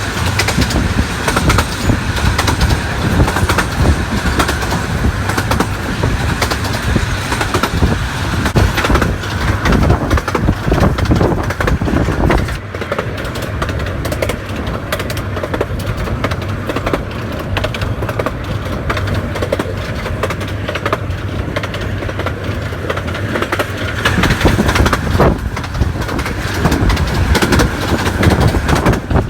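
A 15-inch gauge miniature railway train running: a continuous rumble and clatter that eases and thins about twelve seconds in, then grows louder again near the end.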